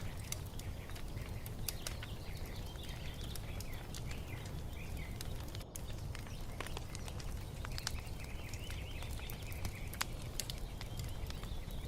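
Wood fire crackling, with frequent sharp pops over a low steady rumble. Small birds chirp and twitter in the background, busiest near the end.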